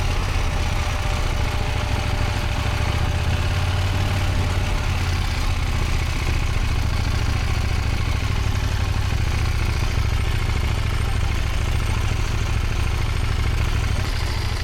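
Motorcycle engine running steadily at low revs during slow-speed riding, with no sharp events.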